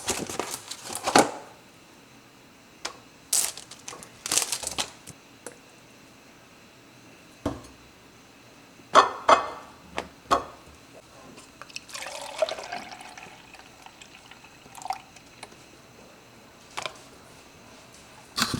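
Snack being prepared in a kitchen: scattered clicks, knocks and rustles of containers and packaging, with a longer stretch of liquid sound about twelve seconds in.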